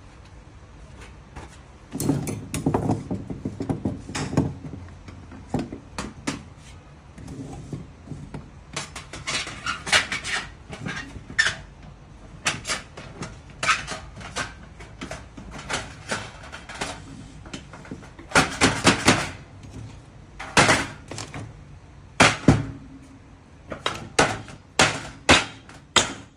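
Metal parts of a compact round folding fire pit clanking, clicking and scraping against each other as it is assembled, in irregular clusters of knocks and rattles.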